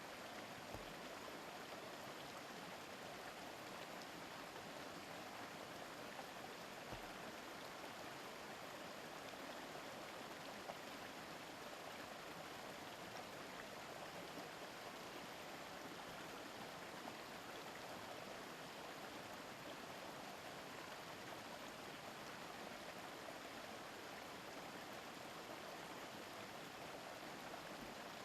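A river murmuring steadily, an even, unbroken rush of running water.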